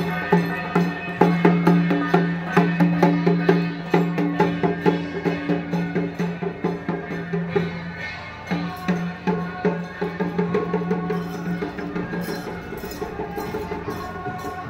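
Traditional temple procession music: sustained pitched tones over a fast, clacking wood-block and drum beat, the percussion thinning out near the end.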